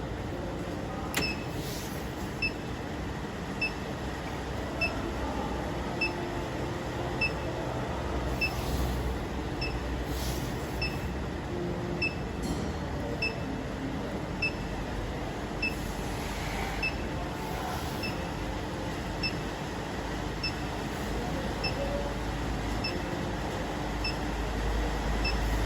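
High-frequency induction heating machine running while it heats a copper bar: steady machine noise with a short high beep about every 1.2 seconds. A low rumble grows louder near the end.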